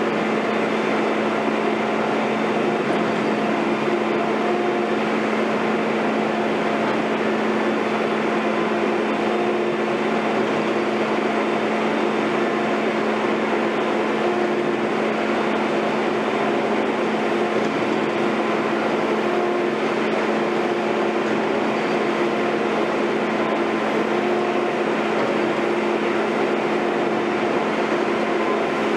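Diesel engine of heavy construction machinery running steadily at constant speed, a level hum that does not change in pitch.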